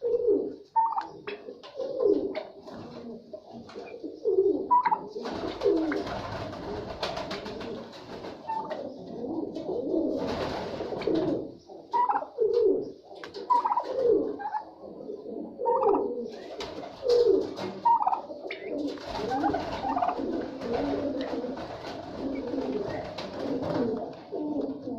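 Domestic birds calling over and over in short, low calls, about one a second, with several stretches of noisy hiss underneath.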